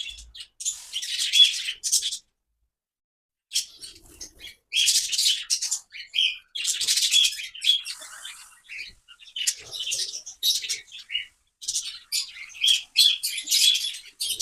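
A flock of small aviary birds chirping in quick, repeated high-pitched bursts, broken by about a second of silence a couple of seconds in.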